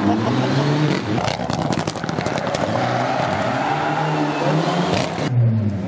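Rally car engine revving hard, its pitch climbing and dropping again and again with the gear changes, over dense tyre and road noise. The sound changes abruptly near the end.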